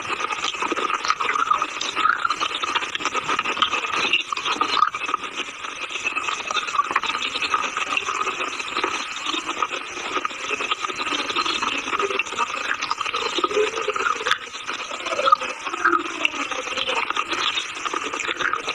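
Close-miked crunching and chewing of brittle chalky mineral in the mouth: a dense crackling grind that goes on without a break.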